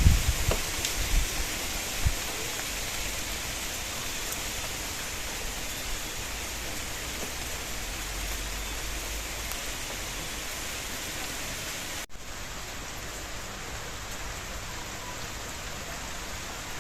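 Steady rain falling: an even hiss of drops on surfaces. A few loud low thumps or rumbles sound in the first two seconds, and the sound drops out for an instant about twelve seconds in.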